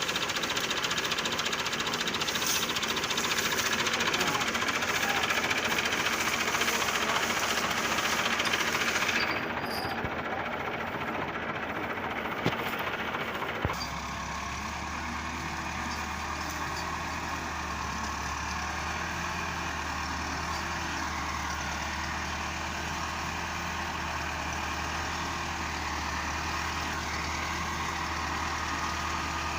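Tractor diesel engines running under load, hauling loaded sugarcane trolleys. About 14 seconds in the sound changes abruptly to a steadier, deeper engine drone.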